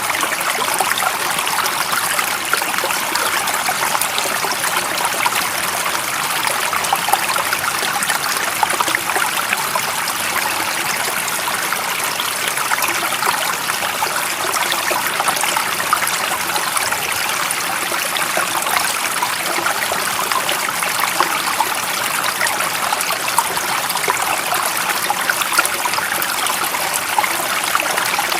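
Stream water running steadily over stones, an even hiss with fine trickling and splashing detail.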